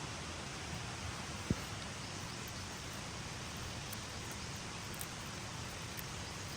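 Steady hiss with a soft knock about a second and a half in and a few faint high clicks later.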